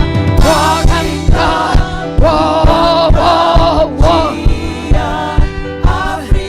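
Gospel choir singing over a steady, driving drum beat.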